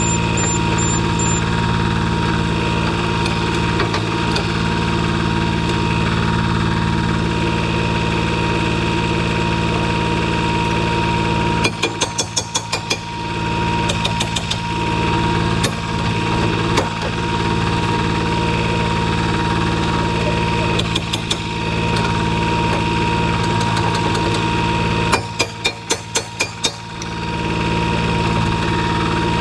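Skid steer engine idling steadily, with two short runs of rapid sharp knocks, one about twelve seconds in and one near the end.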